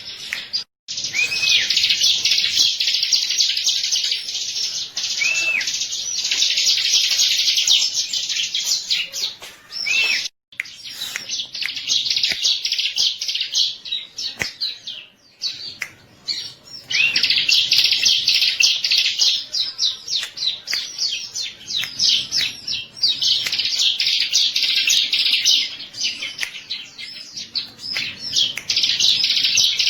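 Ciblek, a small prinia, singing a rapid, high, chattering trill in long bouts broken by short pauses, with a few brief looping whistles mixed in.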